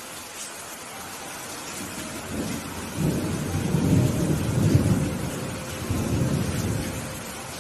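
Steady rain falling, with a low roll of thunder that builds about two seconds in, is loudest in the middle and dies away near the end.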